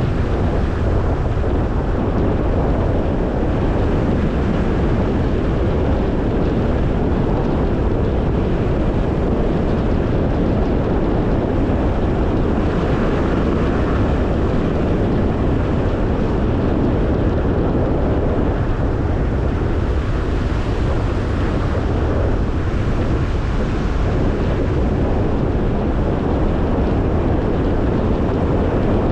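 Car driving at a steady speed: an even rush of tyre and road noise with engine hum, unchanging throughout.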